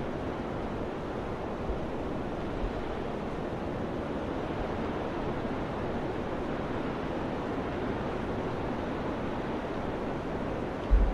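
Steady rush of wind, with a few short low thumps of wind buffeting the microphone, the strongest near the end.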